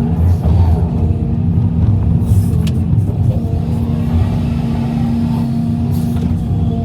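Heavy diesel machinery engine running steadily: a loud low rumble with a constant hum.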